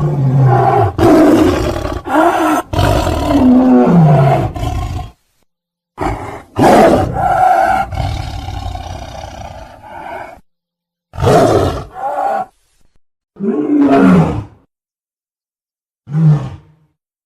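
A string of big-cat roar and snarl sound effects: a long stretch of loud roaring over the first five seconds, then four separate, shorter roars, each cut off cleanly with silence between them, the last about a second before the end.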